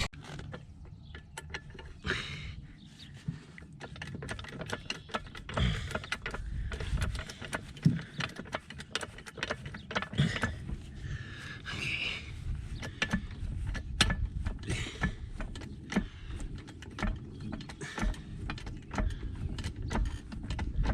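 A jack being worked to lift a small wooden shed: irregular metal clicks and knocks, with a few heavier thumps, as it is raised a little at a time.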